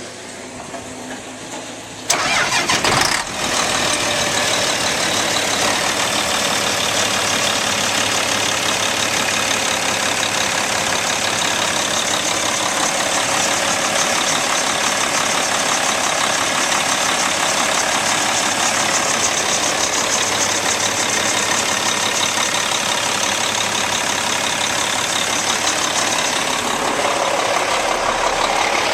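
Cat C-10 diesel engine of a Kenworth T800 concrete mixer truck starting about two seconds in, then running steadily at idle.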